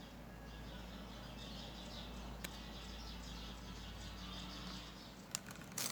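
Several small birds chirping, a steady jumble of short high notes, with a sharp click a little before the middle and a few more clicks near the end.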